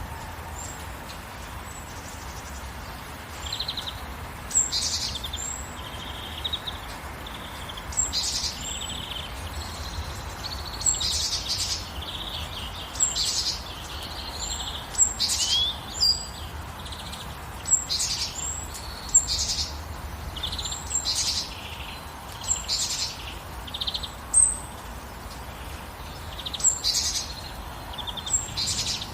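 Birds chirping in short, high phrases about every two seconds, over a steady hiss of gentle rain.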